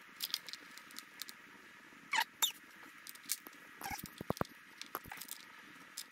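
Light metallic clicks and taps of bolts and hand tools being handled and set into the aluminium water pump housing of a snowmobile engine, with a quick run of four clicks about four seconds in.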